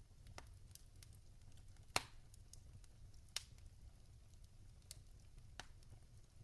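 Wood logs burning in a fireplace, crackling: a few sparse, sharp pops, the loudest about two seconds in and another about a second and a half later, over a faint low rumble.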